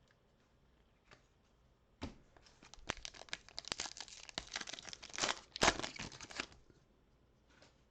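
A plastic trading-card pack wrapper torn open and crinkled, starting about two seconds in and stopping a second or so before the end.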